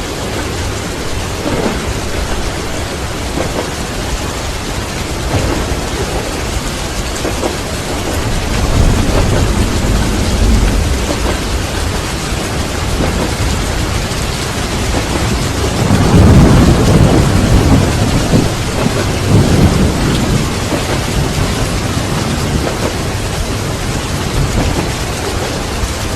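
Steady heavy rain with thunder rumbling through it, a long rumble about two thirds of the way in being the loudest.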